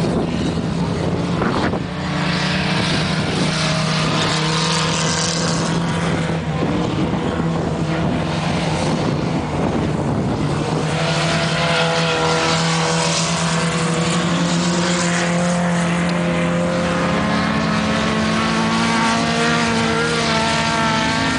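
Ice-racing cars running flat out, their engines holding a steady, high-revving drone, with a second engine climbing slightly in pitch near the end.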